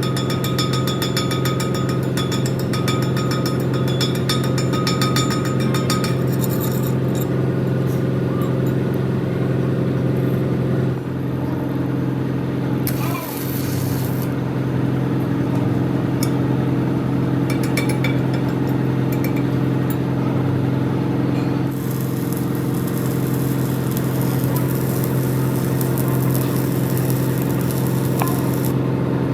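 A steady, engine-like machine hum runs throughout, with rapid crackling over it for the first several seconds, a brief hiss about halfway through, and a longer stretch of hiss in the last third.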